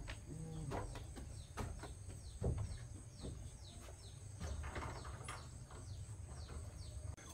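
Small birds chirping in a run of short chirps that fall in pitch, over a steady high insect drone and scattered soft knocks.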